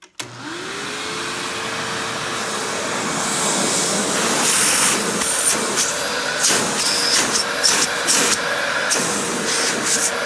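Hoover Windtunnel upright vacuum with a swapped-in Maytag-era Windtunnel motor switched on with a click, its motor whine rising and settling into a steady tone. From about four seconds in, the suction rush surges and dips in quick pulses as the hose is worked in tool mode.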